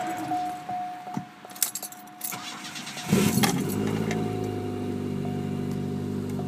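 A few clicks of the key in the ignition of a 1992 Chevrolet Cavalier, then about three seconds in the engine cranks briefly, catches and settles into a steady idle.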